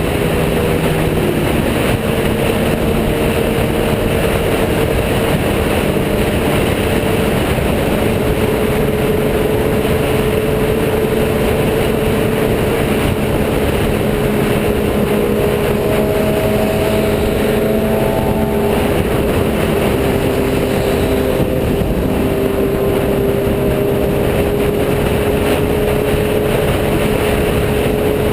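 Motorcycle engine running at a steady cruising speed under heavy wind rush on the microphone, its pitch drifting only slightly.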